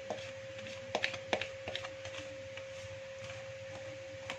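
A few light clicks and knocks of a spoon against a mixing bowl as flour is stirred into oil, all within the first two seconds, over a faint steady hum.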